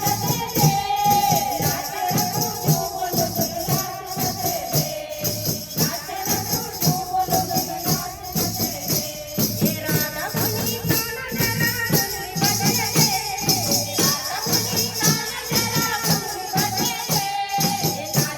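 Bhajan music: a voice singing a bending melody over a steady drum beat and high, rhythmic shaken percussion.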